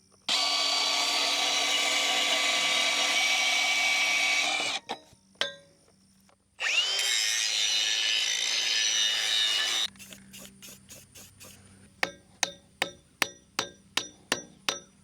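Angle grinder cutting a steel fence pipe in two runs of about four and a half and three seconds, the motor rising in pitch as it spins up for the second. Near the end, a quick series of light metallic taps, about two or three a second.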